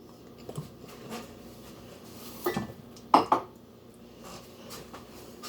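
A kitchen utensil knocking and clinking against a mixing bowl while peanut butter is scooped into it: a few light knocks, with two louder ones past the middle.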